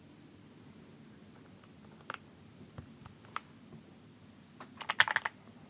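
Plastic keycaps clacking on a Keychron Q6 HE mechanical keyboard with magnetic Hall-effect switches: a few scattered clicks, then a quick run of louder clacks about five seconds in.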